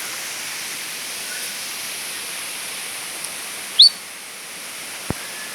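Steady rushing of a waterfall, with one short, high chirp a little under four seconds in and a faint click near the end.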